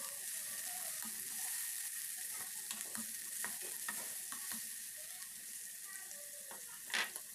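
Chopped onion and tomato sizzling in hot oil and butter in a non-stick pan while being stirred with a spatula, with small scraping taps throughout and one sharper tap near the end.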